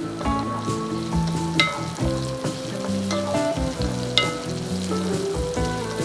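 Food frying and sizzling in a pan, with scrapes and clicks of stirring, under a background music track.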